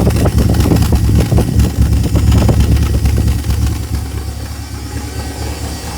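Volvo 142's four-cylinder engine running at idle a little unevenly, settling a bit quieter about three and a half seconds in. The fuelling and ignition timing are not yet tuned on its new Speeduino engine controller.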